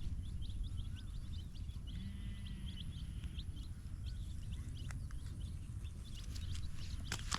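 Rabbits munching green grass: a scatter of quick, crisp clicks and rustles over a low, steady rumble of background noise.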